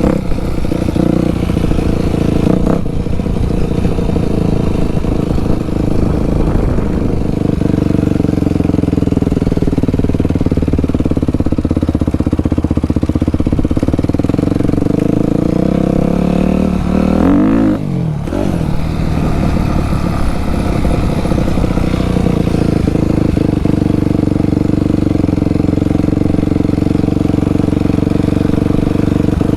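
Dirt bike engine running steadily, with one rev that rises and falls about two thirds of the way through.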